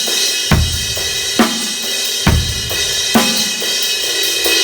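Drum kit groove with 16th notes played on a crash cymbal, keeping a steady, washy crash sound, over a slow bass drum and snare backbeat that comes across as a slow eighth-note groove.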